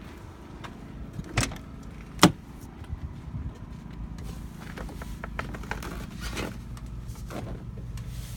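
Two sharp clunks less than a second apart, then softer knocks and rustling, from a truck cab door and its steps as the cab is entered, over a steady low rumble.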